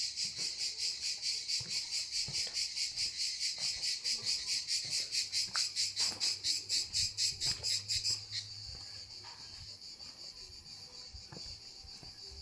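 An insect singing close by, a high-pitched pulsing song at about four pulses a second. It stops suddenly about eight seconds in, leaving a fainter, steady insect hiss from further off.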